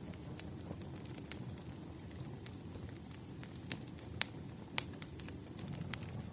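Wood fire crackling: a steady low rumble of burning logs with irregular sharp pops, the loudest two a little after four and five seconds in.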